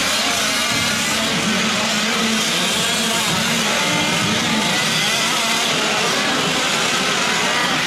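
Several fifth-scale gas RC trucks racing, their small two-stroke engines running together with the pitch constantly rising and falling as they accelerate and lift off.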